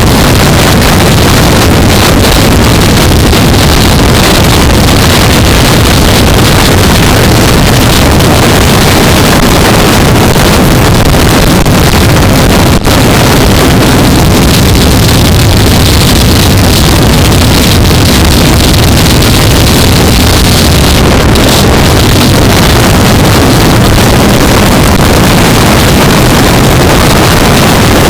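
Riding noise from a 2015 Yamaha R3 at speed, picked up by a helmet-mounted camera: the parallel-twin engine running steadily under heavy wind rush on the microphone, loud throughout.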